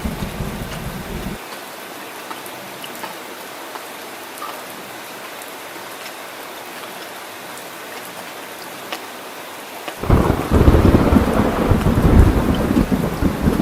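Steady heavy rain with scattered drop ticks during a thunderstorm. A deep thunder rumble cuts off abruptly at the start, and about ten seconds in a loud rumble of thunder starts suddenly and rolls on.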